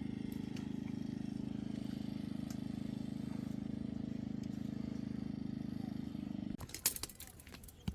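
A small engine or motor running steadily with a fast, even pulse, stopping abruptly about six and a half seconds in; a few clicks and crackles follow.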